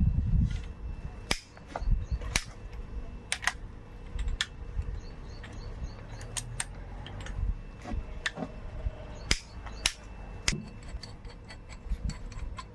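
Sharp metallic clicks and clinks from hand tools working on engine bolts, spaced irregularly, with a few louder knocks.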